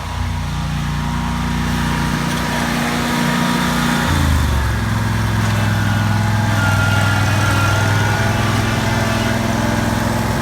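An engine running steadily, its pitch shifting about four seconds in.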